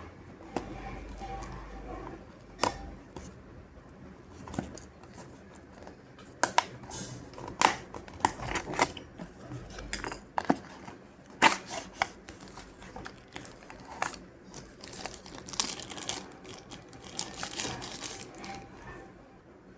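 Earbuds and their packaging being handled: crinkling with scattered sharp clicks, thickest in the middle and near the end.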